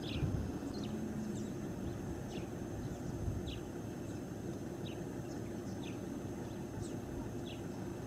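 Small birds chirping with short, high, downward-slurred calls about once a second, over a steady low rumble of outdoor background noise.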